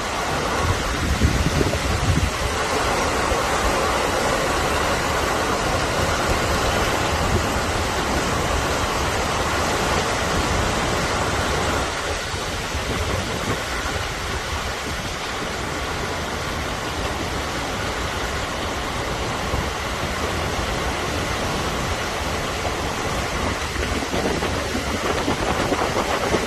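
Heavy rain pouring steadily, with gusts of wind buffeting the microphone in the first couple of seconds.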